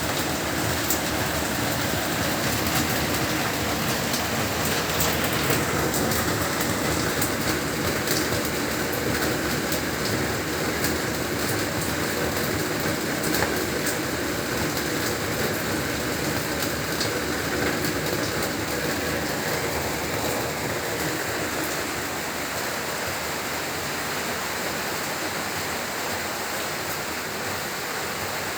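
Heavy rain falling steadily: a dense, even hiss with the faint ticks of individual drops striking.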